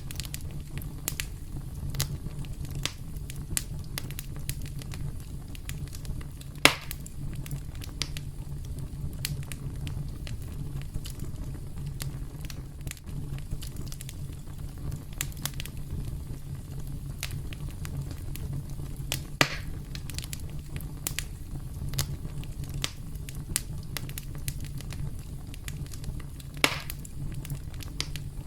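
Campfire crackling: a steady low rumble of burning with frequent small snaps and pops of burning wood, and three louder pops spread through the stretch.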